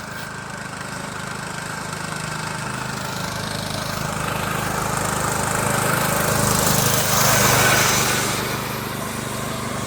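Riding lawnmower, geared to go faster with a bigger front pulley, driving past at speed: its engine runs steadily, growing louder to a peak about seven or eight seconds in, then fading.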